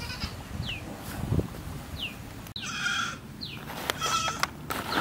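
A bird repeating a short, falling whistled note about every second and a half. Just after the middle comes a brief call with a stack of tones, and near the end a short burst of clicking.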